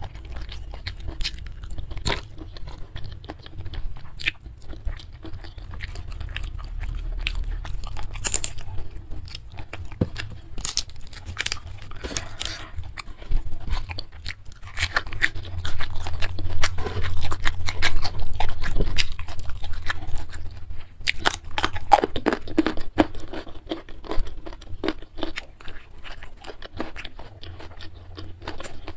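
Close-miked eating: wet chewing and crisp crunching of mouthfuls of rice, spicy beef sambal, raw vegetables and young jengkol, with fingers squishing rice. A steady run of small irregular crackles and crunches, busiest in the middle and latter part.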